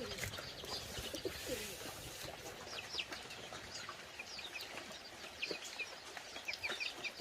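Birds chirping: many short, quick falling chirps scattered throughout, with a few low calls in the first second and a half.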